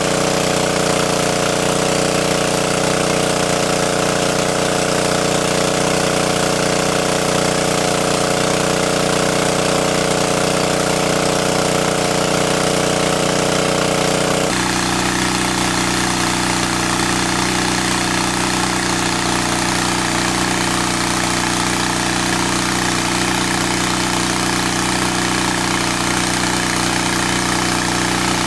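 A small engine running steadily, its tone changing abruptly about halfway through.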